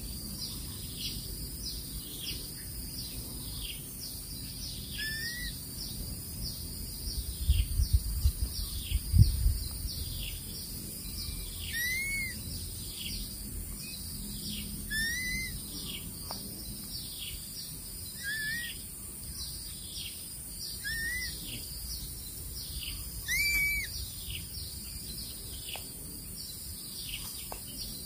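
Birds calling: a high, falling note repeated about once a second, with a short rising-and-falling whistle every few seconds, six in all. A brief cluster of low thumps about a third of the way in is the loudest sound.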